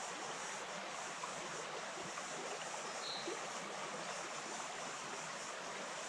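Flowing water of the Wainuitewhara stream, a steady, even rush.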